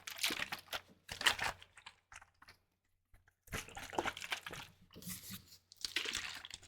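Plastic spray bottle of diluted white vinegar handled close to the microphone: crinkly, crackling plastic noises in two stretches with a short pause between.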